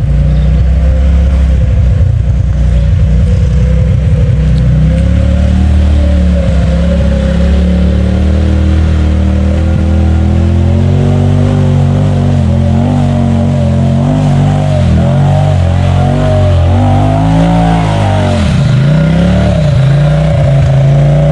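Side-by-side UTV engine revving up and down under load as the machine works through deep ruts. The pitch rises and falls repeatedly, with the sharpest drops and surges near the end.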